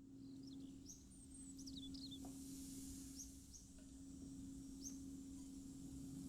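Faint, scattered chirps of small birds over a steady low hum of room tone.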